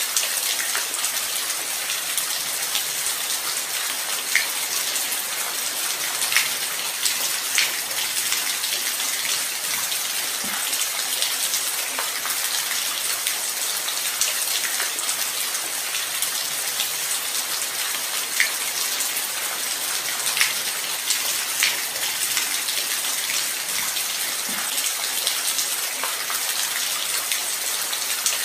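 Light rain falling steadily: an even, high hiss with occasional louder single drops ticking close by.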